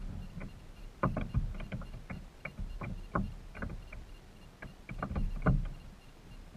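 Kayak being paddled: the paddle dips and splashes, with a dozen or so irregular light knocks and low thumps.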